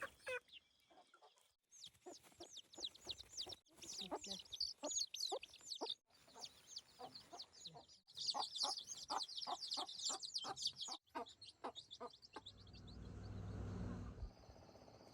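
Chickens calling and clucking in a rapid stream of short, high calls, with a short break partway through. A brief low rumble follows near the end.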